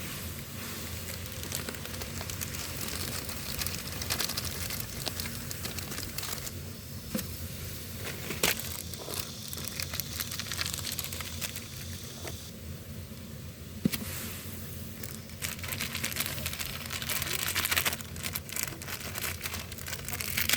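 Wood fire crackling under a cooking pot, with irregular pops and clicks over a steady hiss.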